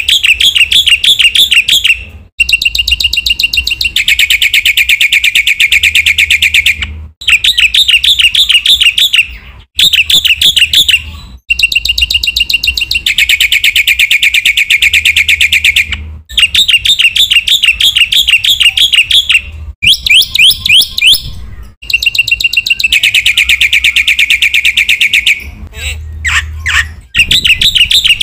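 Black-winged starling (jalak putih) singing loudly in bursts of fast, chattering trills, each run lasting a few seconds with short breaks between.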